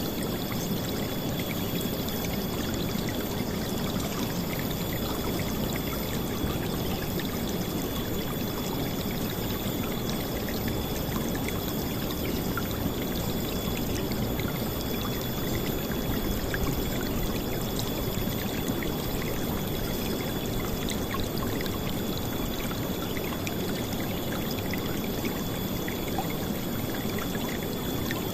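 River water flowing steadily, a dense, unbroken rushing and splashing.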